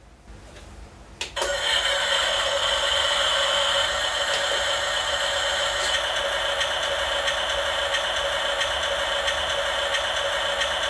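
Small electric motor and gearbox of a radio-controlled toy vehicle whirring steadily, starting after a click about a second and a half in.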